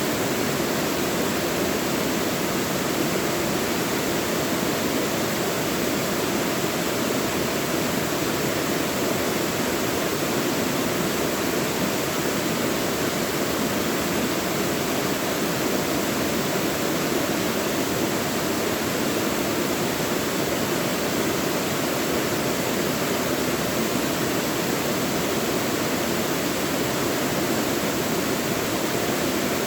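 Mountain stream rushing steadily over rocks in a deep valley: a full, even water noise that does not change.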